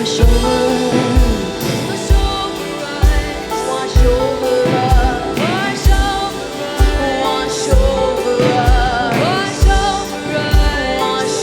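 Live worship music: a singing voice over sustained chords, with a steady kick-drum beat about once a second.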